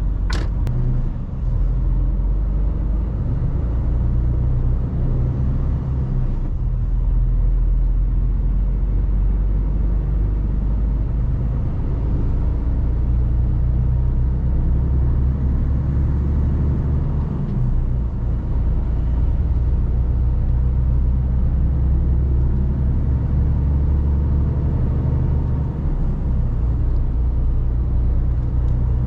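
Mercedes Actros truck's diesel engine running under way, a steady low drone heard from inside the cab that rises and falls a little, with a single sharp click just after the start.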